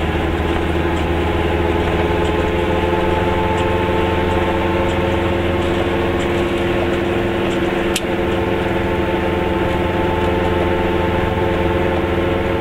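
A Goggomobil's two-stroke twin-cylinder engine running steadily as the small car drives along, heard from inside the cabin. There is a single short click about eight seconds in.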